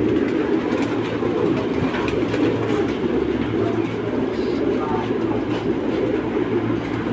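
Many fancy pigeons cooing at once in a loft: a steady, dense chorus of overlapping coos.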